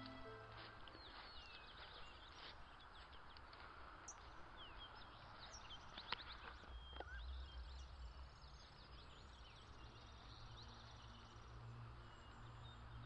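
Faint outdoor ambience: several birds chirping and singing in short, quick notes over a low steady rumble, with one sharp click about six seconds in.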